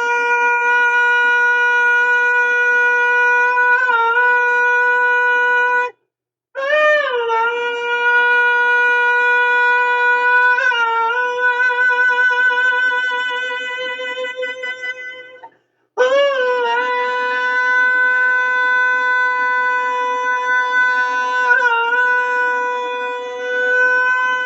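A high solo voice holding three long sustained notes, each one sliding down into a steady pitch. The middle note wavers and fades before it cuts off, and each note ends abruptly.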